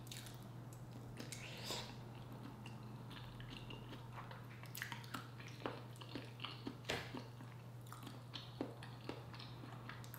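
Close-miked chewing of a sauce-coated boiled egg, with wet mouth smacks and clicks that come more often in the second half, over a steady low hum.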